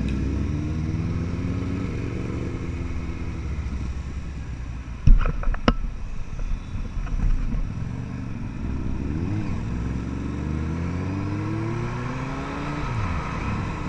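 Ducati 795's air-cooled L-twin engine running under way, its note rising and falling as the bike speeds up and slows. A few sharp knocks sound near the middle.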